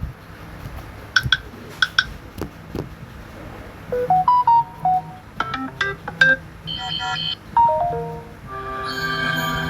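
Samsung Galaxy S24 built-in tones played one after another: two short chimes at about one and two seconds in, then a melody of short stepped notes, ending in a held chord near the end.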